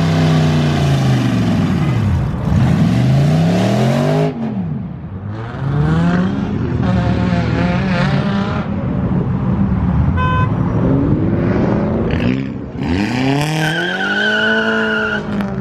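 Car engines revving hard again and again, their pitch climbing and falling several times. A high steady squeal sounds over the revs near the end.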